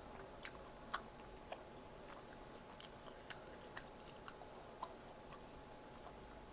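A person chewing food close to the microphone, with a scattering of sharp, crisp clicks and crunches; the loudest comes about a second in.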